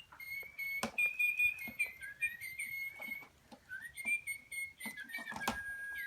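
Small pet birds chirping and twittering in quick short high notes, with a couple of sharp clicks, one about a second in and one near the end.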